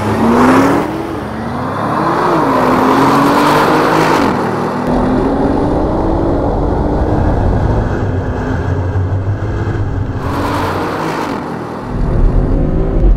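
Twin-turbocharged car engine accelerating hard from a standing start at a drag-race launch. Its pitch climbs and drops back at each upshift, with quick shifts in the first few seconds, then a longer, slower climb in a higher gear.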